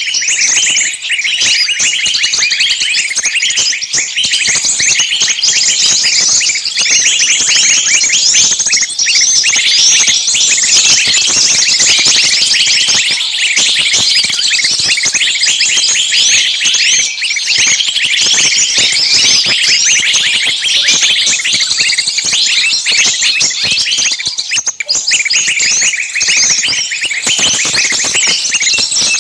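Many small birds chirping at once, a dense, continuous, high-pitched chatter of overlapping short calls.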